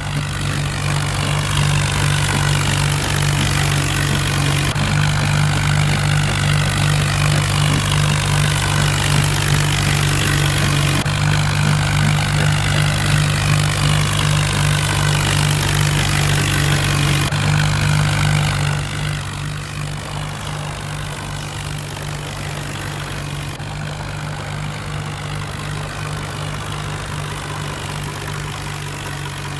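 Massey Ferguson tractor's diesel engine running steadily. It is louder for most of the stretch, then drops to a quieter, even running about 18 seconds in.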